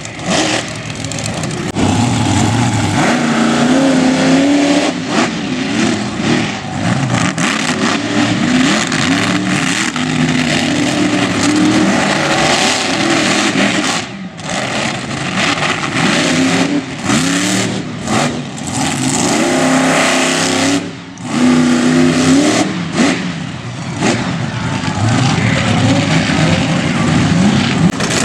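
Monster truck's high-horsepower engine revving hard over and over, its pitch climbing and falling with the throttle, with a few brief dips where the throttle is lifted.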